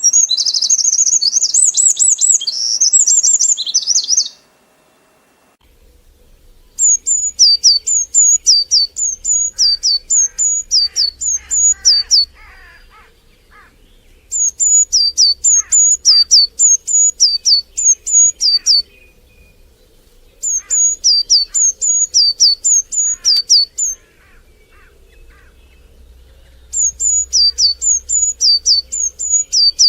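Birdsong: a few seconds of rapid high chirping, a brief break, then a songbird singing phrases of repeated high, falling notes, each phrase about five seconds long with short pauses between.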